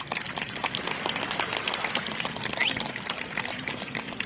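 Fireworks crackling in a dense, rapid patter of small pops.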